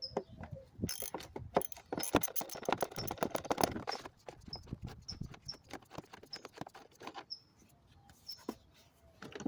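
A socket ratchet clicking rapidly, with scattered knocks and clicks of hand tools and plastic intake parts, as a 10mm bolt on the air intake is worked loose. The densest run of clicking comes about two to four seconds in.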